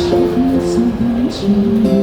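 Live band music: strummed acoustic guitar under a melody of held and gliding notes.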